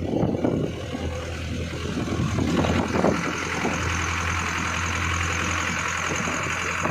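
Vehicle engine running steadily with a low, even hum and road and wind noise.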